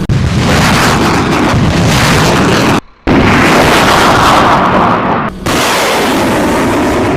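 M142 HIMARS rocket launch: loud, continuous rushing blast of rocket exhaust, in three stretches cut apart by abrupt short gaps just under three seconds in and again a little after five seconds.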